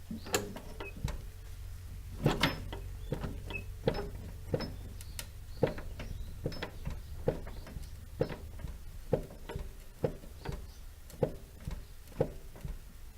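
Repeated sharp knocks, a little more than one a second and unevenly spaced, from a Cusco coilover's pillow-ball upper mount as the jacked-up wheel is moved up and down: the pillow ball has play, which shows up as the clunk heard over bumps.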